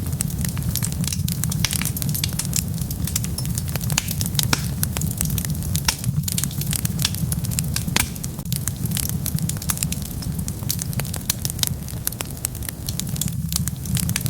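Wood fire burning, with dense, irregular crackles and pops over a steady low rumble of the flames.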